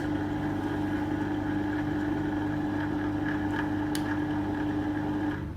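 Electric motor of a Timken-type lubricant load tester spinning the test ring through its oil bath with no load applied: a steady hum with one strong tone. It cuts off about five seconds in.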